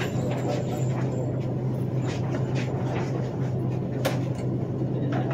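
Steady low hum of an indoor shooting range's ventilation system, with a single sharp click about four seconds in.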